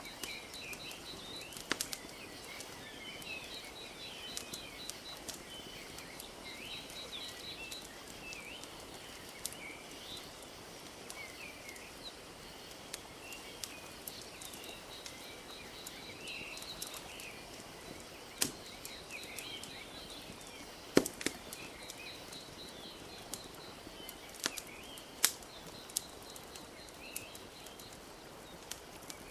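Wood fire crackling with scattered sharp pops, over a steady wash of gently lapping lake water. Small birds chirp and twitter throughout, with a rapid trill now and then.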